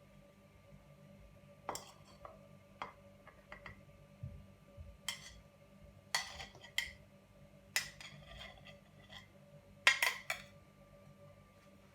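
Kitchen dishes and cutlery clinking and knocking: a dozen or so separate light knocks, the loudest cluster near the end, over a faint steady hum.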